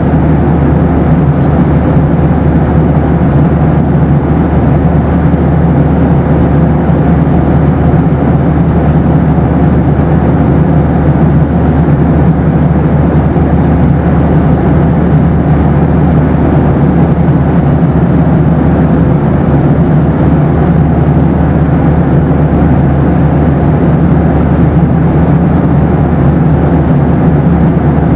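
Boeing 737 passenger cabin noise: a steady low rumble of engines and rushing air, with a faint steady tone running through it.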